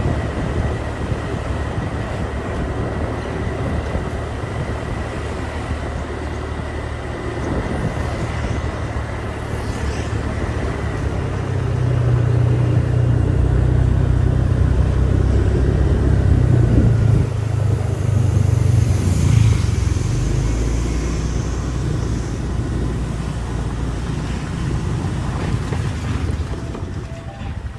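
Motorbike engine running during a ride, with road and traffic noise around it. The engine grows louder partway through, then settles lower and dies down near the end.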